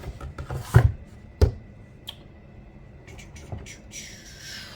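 Handling knocks: two sharp clunks of hard objects being set down, about a second and a second and a half in, with a few lighter clicks, then a short falling swish near the end.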